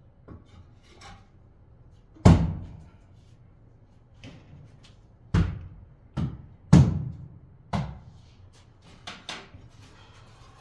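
A series of hard knocks: one loud knock, then four more about a second apart in the middle, and a few lighter ones near the end.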